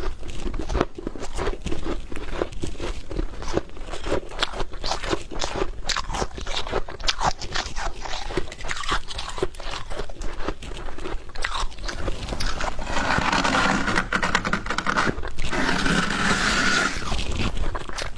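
Frost being bitten and chewed, heard close up: a quick, irregular run of sharp crunches, then a denser, continuous stretch of crunching for a few seconds near the end.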